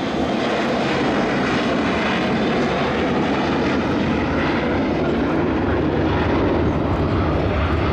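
Boeing 727-200 freighter's three rear-mounted Pratt & Whitney JT8D turbofan engines as the jet passes low along the runway with gear down: a steady, loud jet rumble whose low end grows a little stronger in the second half.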